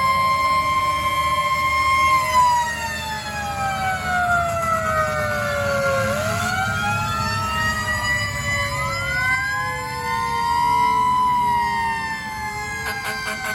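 Fire truck siren wailing: a steady tone for about two seconds, then a slow wind-down in pitch, then rising and falling again, with a second siren glide overlapping it. A truck engine rumbles underneath.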